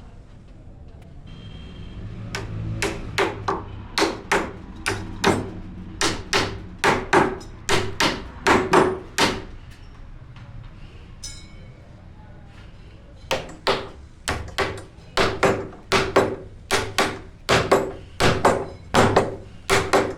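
Hammer blows on wood, about two a second, in two runs separated by a pause of about four seconds.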